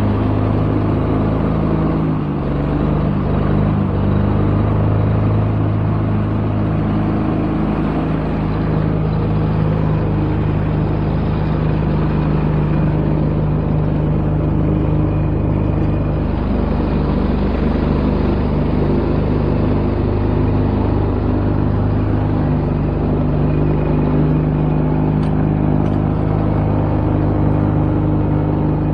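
Kohler engine on a Ferris zero-turn mower running steadily under throttle without revving up, with a slight dip about two seconds in. It lacks power and will not reach full revs, which the owner thinks is a fuel issue.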